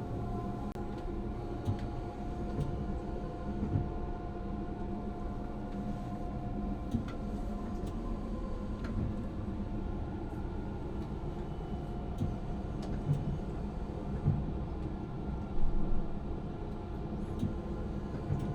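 Tram running along the track, heard from inside the driver's cab: a steady running hum with a held electrical tone, and scattered knocks and clicks from the wheels on the rails.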